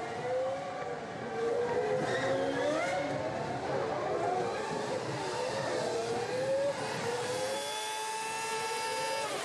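Several race car engines at full throttle. Their pitches climb and drop as the cars accelerate and shift gears. Near the end one engine holds a steady high pitch, then the sound cuts off abruptly.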